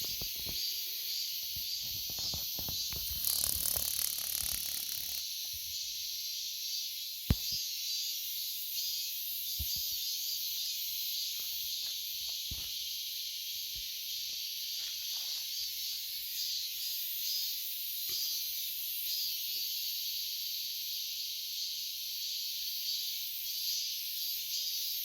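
Cicadas buzzing in a steady, high-pitched drone. Scattered knocks and a rustle come in the first few seconds, and a single sharp click about seven seconds in is the loudest moment.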